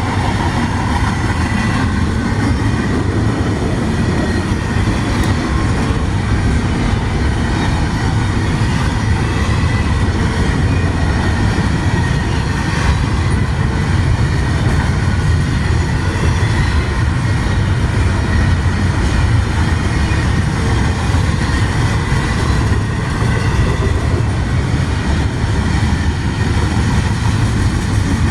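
Long freight train rolling past close by: a steady, loud rumble of wheels on rail, with a faint high tone running through it.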